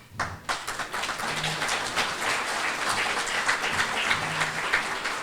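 Audience applauding: a crowd's clapping that starts almost at once and holds steady.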